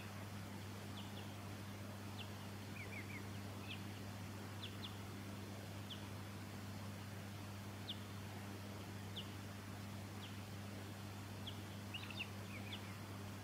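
Silvereyes giving short, thin, high call notes, some single and some in quick clusters of two to four, over a steady low hum.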